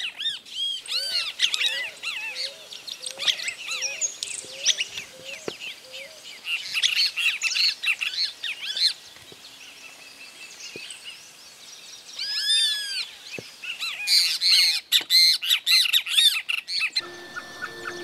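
Several birds calling in woodland: many short, high, arched chirps repeated throughout, with a low series of short rising notes about twice a second during the first few seconds and a steady high whistle near the end.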